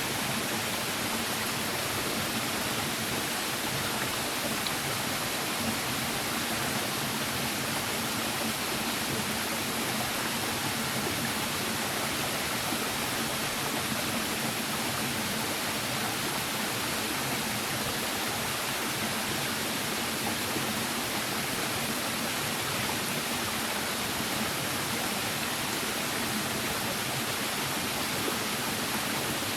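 Steady rushing hiss of water, even and unbroken, with no separate drops, knocks or crackles standing out.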